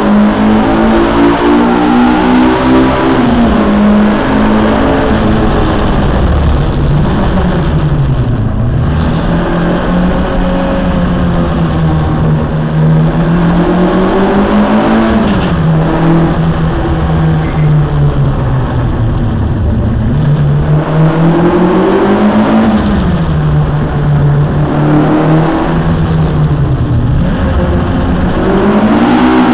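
Citroën Saxo VTS 1.6 16v four-cylinder engine heard from inside the cabin while driven hard on a circuit. The revs climb under acceleration, then fall away sharply on lifts and braking for corners, several times over.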